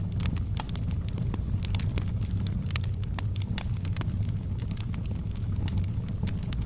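Wood fire burning in a fireplace: a steady low rumble of the flames with frequent sharp, irregular crackles and pops from the burning wood.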